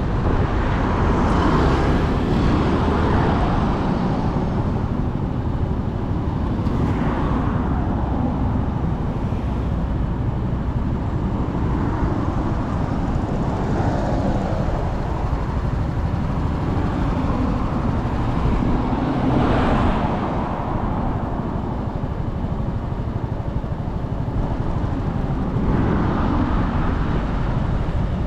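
Motorcycle riding in road traffic, recorded from the bike: a steady low rumble of engine, tyres and wind on the microphone, with a swell of louder noise every five or six seconds.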